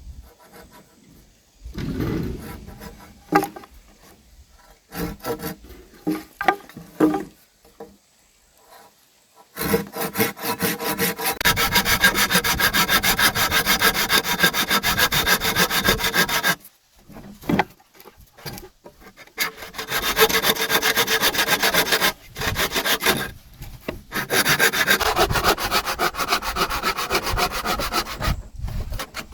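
Bamboo being worked by hand with rapid, even scraping strokes: a few scattered knocks, then three long runs of strokes separated by short pauses.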